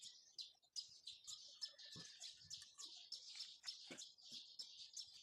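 Many small birds chirping faintly and busily, with a couple of light knocks about two and four seconds in.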